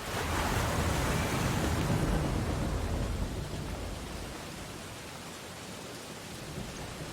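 Ocean waves breaking on the shore: a wave crashes in suddenly at the start with a deep rumble, then washes out and fades over the next few seconds into softer surf.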